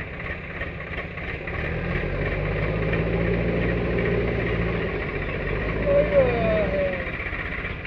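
Heavy diesel machinery engine running, its note rising and working harder from about two seconds in, then easing off. A short high sliding tone comes near the end.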